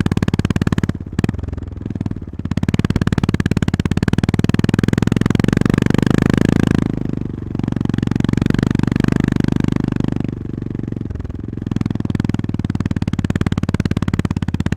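Honda GB350S single-cylinder engine under way, pulling steadily; the throttle is rolled off three times, about a second in, near the middle and about two-thirds through, and each time the engine picks back up.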